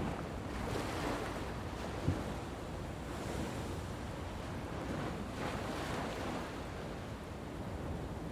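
Ocean surf breaking and washing up a beach, the rush swelling and fading every two to three seconds, with a single short thump about two seconds in.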